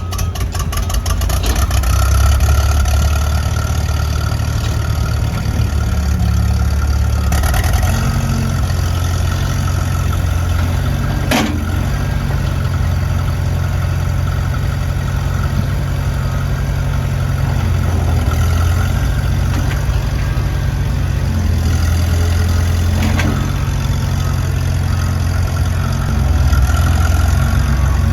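International 444 tractor engine running steadily at idle, with a sharp click about eleven seconds in.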